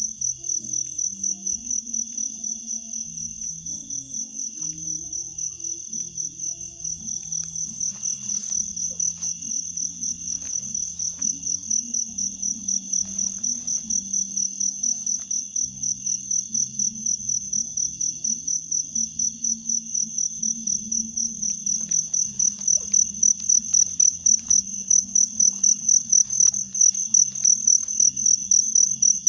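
Insects trilling, a loud high-pitched sound that pulses evenly about twice a second and grows louder over the last third, with a faint low hum underneath.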